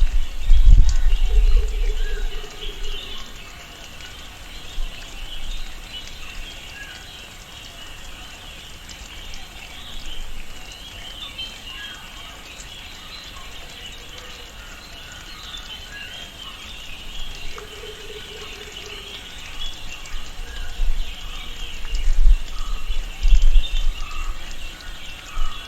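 Tropical rainforest ambience: a steady high chorus of birds and insects calling, with a short lower call twice, about a second in and again around seventeen seconds. Low rumbling surges come at the start and from about twenty seconds on.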